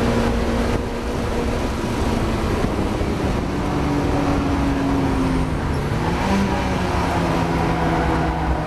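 Mazda MX-5 race car's engine heard from inside the car at racing speed, with road and wind noise. The engine note drops about halfway through, then climbs again as the car accelerates.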